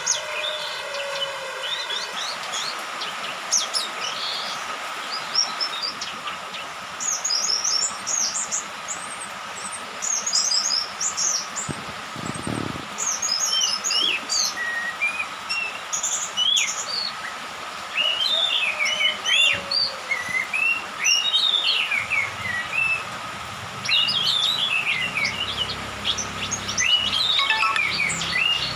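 Young orange-headed thrush (anis merah), just out of its spotted juvenile plumage, singing in repeated bursts of quick, varied high twittering phrases.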